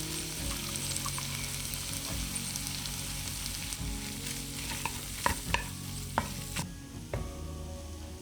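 Food sizzling in a hot pan while being stirred, with a few sharp knocks of a utensil against the pan about five to six and a half seconds in. The sizzle drops away near the end.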